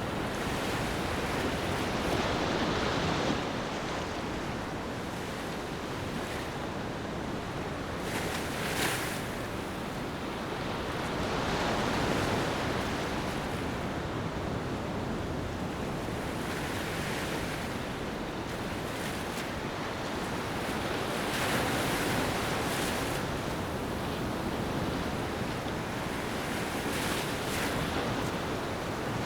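Ocean waves washing onto a beach, each wave swelling and easing back, one every four to six seconds.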